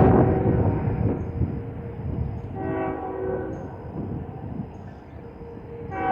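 Locomotive air horn sounding a chord: a long blast cuts off just after the start, a short blast comes about three seconds in, and another long blast begins near the end, over the steady low rumble of the train.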